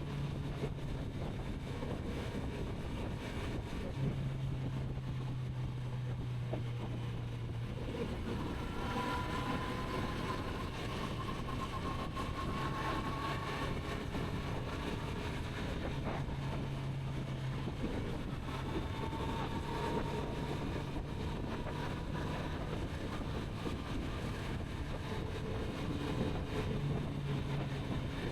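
Kawasaki Z900RS inline-four engine running at a steady cruise. Its low note holds level pitch and swells louder for a few seconds at a time, against wind noise on the microphone.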